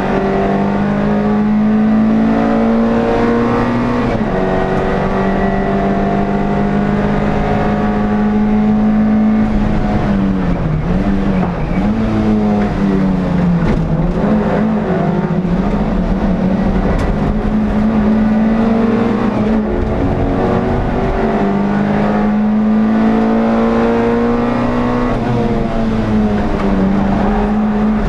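Air-cooled, rear-mounted inline-four engine of an NSU TT race car under hard acceleration, heard onboard. The note climbs and falls sharply at upshifts about four seconds in and again late on. A third of the way through it dips and wavers as the car brakes and shifts down for a corner.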